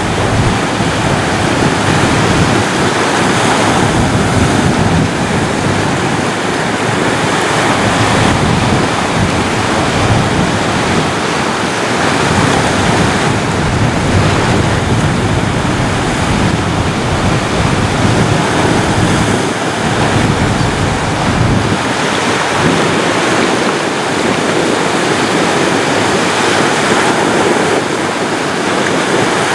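Ocean surf: waves breaking and washing up and back down a beach in a continuous loud wash, swelling and easing gently.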